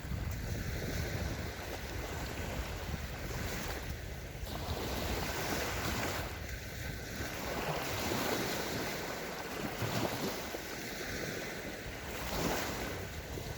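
Small Sea of Azov waves washing onto a sandy beach in repeated surges and ebbs, with wind buffeting the microphone.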